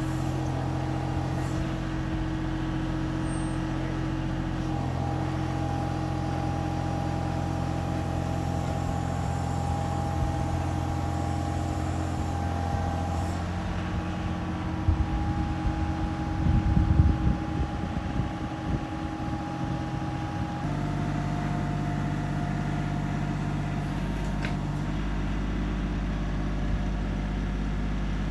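Small tractor engine running steadily, its speed shifting a few times, with a stretch of irregular knocking and rattling about halfway through.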